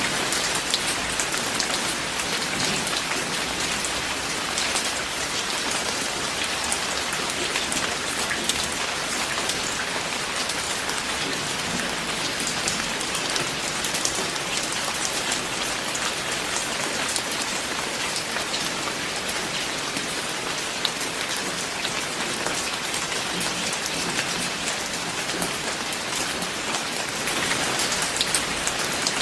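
Steady rain falling, with many sharp individual drops splattering on a surface.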